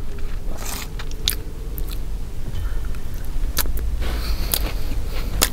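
Close-miked chewing of a bite of submarine sandwich, with scattered wet mouth clicks over a low steady hum.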